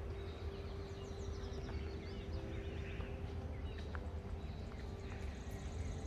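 Songbirds chirping and trilling, with short high calls scattered throughout, over a steady low background rumble and a faint steady hum.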